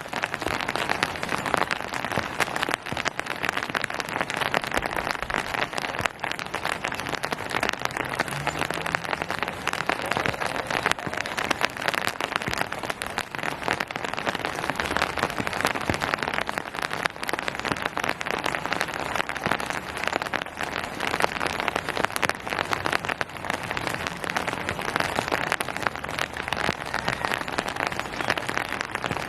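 Steady rain falling on surfaces: a dense, even patter of many drops.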